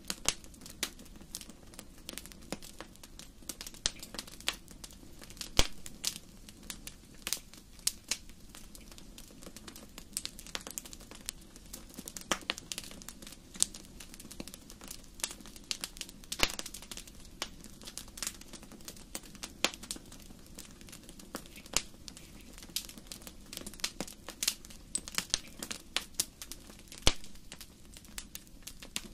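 Wood fire crackling in a fireplace: irregular sharp pops and snaps, a few of them loud, over a steady low hiss.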